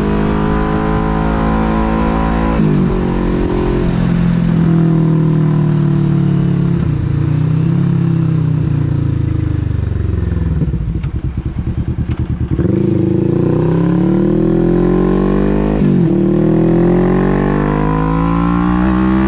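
Kawasaki Vulcan S 649 cc parallel-twin through a Delkevic aftermarket exhaust, under way. Its revs climb and drop at an upshift a few seconds in, then hold. Midway the engine burbles and crackles off the throttle, then pulls up through the revs again with another upshift near the end.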